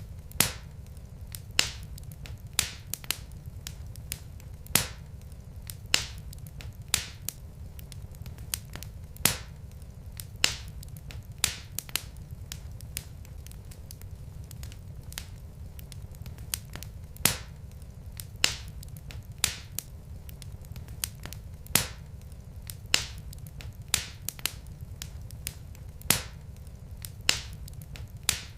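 Wood logs burning in a fireplace, crackling: irregular sharp pops, roughly one a second, over a steady low rumble.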